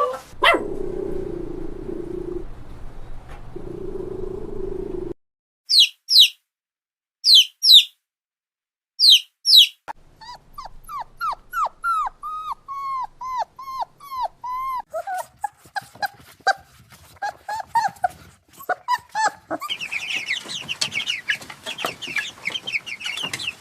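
Several short clips cut together. A steady low drone comes first, then pairs of high, short squeaks. After that comes a quick run of short falling whimpers and yips, like puppies, and higher squealing cries near the end.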